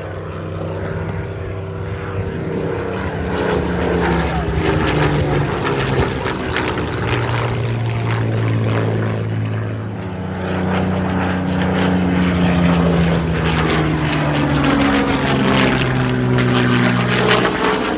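Spitfire and Hurricane piston engines droning as the warbirds fly past, the engine note sliding down in pitch with each pass. It dips briefly about ten seconds in, then swells again.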